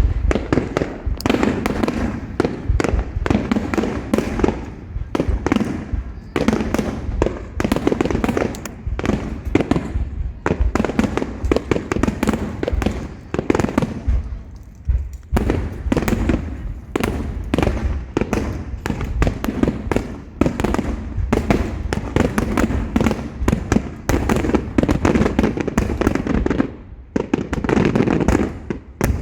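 Super-large starmine fireworks barrage: shells bursting in rapid, overlapping booms and cracks, briefly thinning about halfway through and again near the end.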